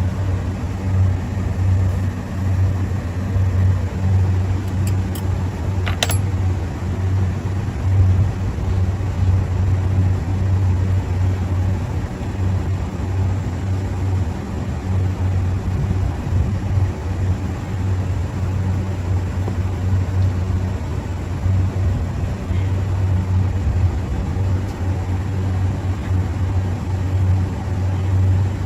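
Steady low machine hum with no change in pitch or level, and a single sharp click about six seconds in.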